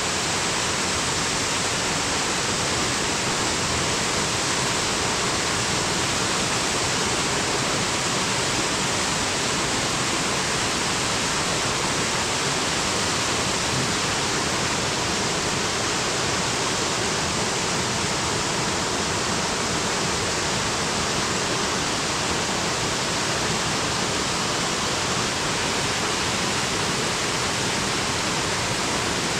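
Waterfall rushing: a steady, unbroken hiss of falling water that never changes in level.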